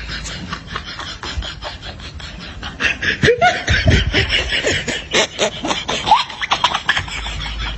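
People laughing, with a louder burst of laughter starting about three seconds in and easing off near the end.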